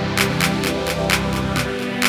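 Electronic music track in an old-school synth style: sustained synth chords over a steady beat of crisp percussion hits about four a second. The deep bass cuts out near the end.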